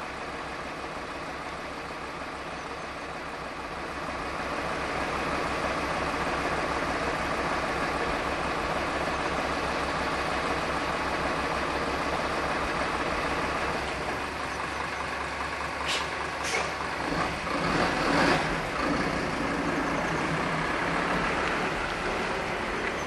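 KiHa 120 diesel railcar's engine running steadily, growing louder about four seconds in. Past the middle come two sharp clicks and a louder, uneven rattling stretch, then the steady running resumes.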